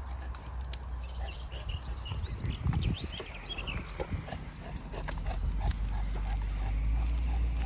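A Boerboel dog snuffling and breathing close by, with a run of short rhythmic puffs at about three a second in the second half, over a steady low rumble.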